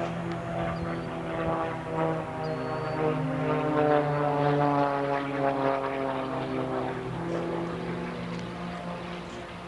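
Propeller airplane's engine droning as it flies past. It is loudest around the middle, and its pitch sinks slowly as it goes by.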